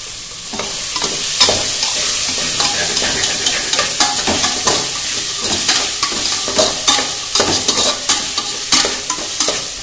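Chicken neck bones and masala sizzling in hot oil in a metal pot while being sautéed, stirred with a metal slotted spatula that scrapes and clicks against the pot many times.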